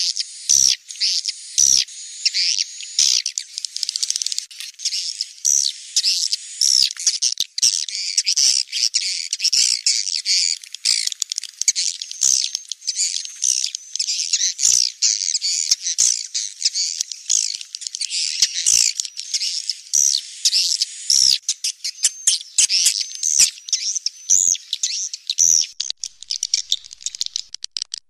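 A large flock of swiftlets twittering continuously: many short, high chirps overlapping, with sharp clicks mixed in.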